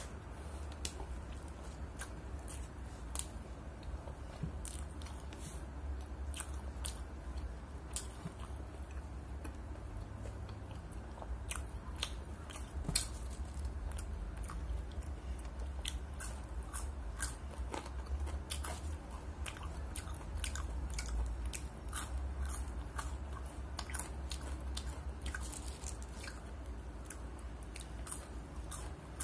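Close-miked eating: a person biting and chewing a chicken burger and French fries, with many short, sharp mouth clicks scattered throughout. A steady low hum runs underneath.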